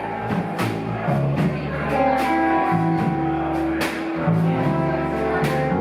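Live rock band playing an instrumental jam: sustained guitar lines over a moving bass line, with a few sharp drum or cymbal hits.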